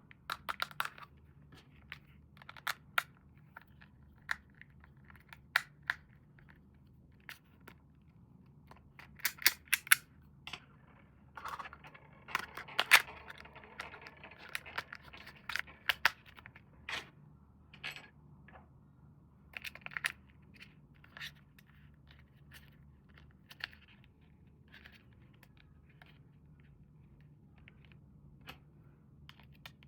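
Handling of toy packaging during an unboxing: scattered sharp clicks and taps of plastic and cardboard, with a longer spell of crinkling and rustling about halfway through.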